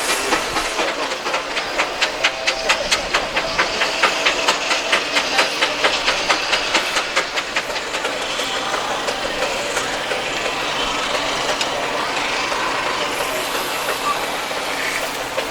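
Steam engine running with a steady hiss of steam and a regular chuff, about three to four beats a second, that fades out after about eight seconds.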